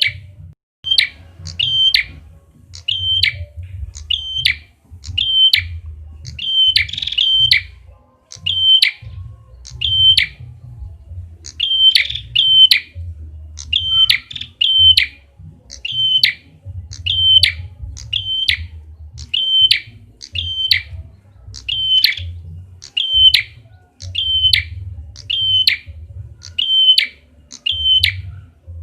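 Red-headed prenjak (a small prinia-type bird) calling, played as a lure call: sharp, high, doubled chip notes repeated about once a second. A low rumble runs underneath.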